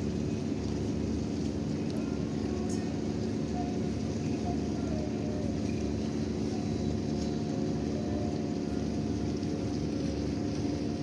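Steady drone of a ship's engines running: a low rumble with several held humming tones that do not change in pitch.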